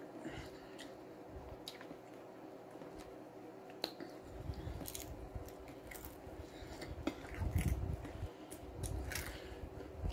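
A person chewing a mouthful of food close to the microphone, with scattered wet mouth clicks and smacks and some low thuds in the second half.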